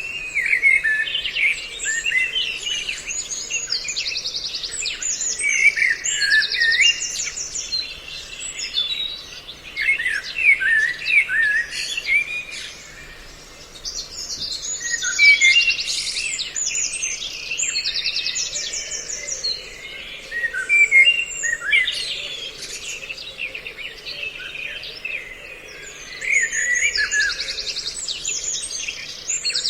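Bird-lure recording mixing the calls of several songbird species: many short whistled chirps overlaid with bouts of rapid, high trills that return every few seconds.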